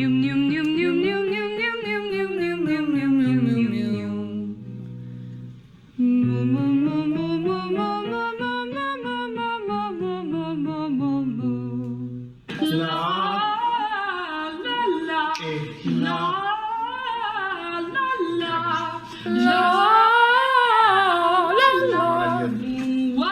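Vocal warm-up: a singer's voice running sung scales on a vowel, two arcs that climb and fall back, then from about halfway a busier run of quick rising and falling patterns, over a low instrumental accompaniment.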